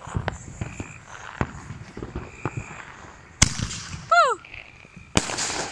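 Small fireworks going off: scattered crackling pops, with two sharp bangs, one about three and a half seconds in and one about five seconds in.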